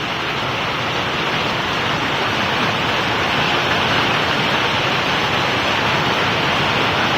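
Heavy rain pouring down in a steady hiss, growing a little louder over the first few seconds.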